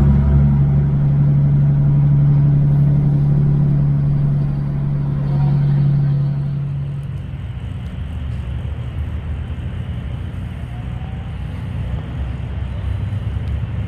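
Kenworth W900L semi truck's Caterpillar diesel engine running with a steady low drone. About seven seconds in the drone eases off, leaving a quieter low rumble.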